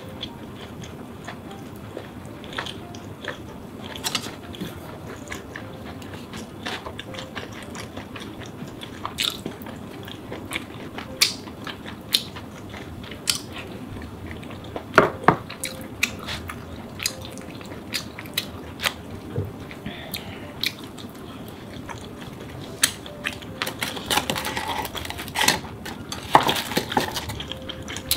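A person eating close to the microphone: chewing a mouthful of oyster ramyeon, with many short sharp mouth clicks and smacks scattered throughout, coming more thickly near the end.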